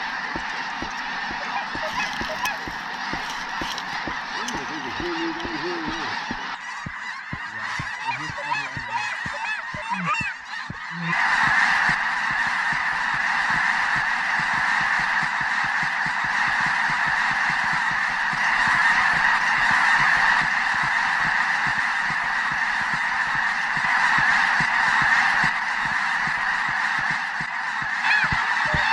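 A huge flock of snow geese calling overhead: a dense, continuous din of overlapping high honks with no break. The chorus swells louder and fuller about eleven seconds in.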